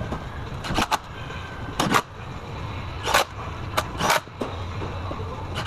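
About five short, sharp metal clanks and clicks from tools and engine parts during timing-chain work on a car engine, over a steady low hum.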